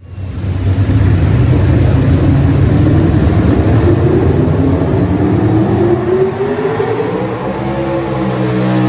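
Small-block engine of a four-wheel-drive pulling truck running hard under load, its revs climbing steadily for about seven seconds and then holding.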